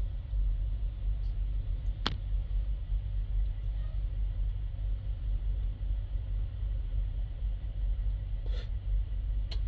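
Steady low rumble of an idling truck engine, with one sharp click about two seconds in and two softer clicks near the end.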